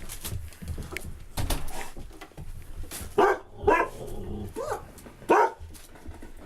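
Dog barking: a run of four short, loud barks starting about halfway through.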